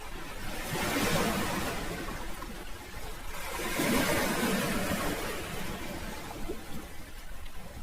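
Sea waves washing in, each one rising to a surge of hissing noise and then ebbing. Two swells come, about a second in and about four seconds in.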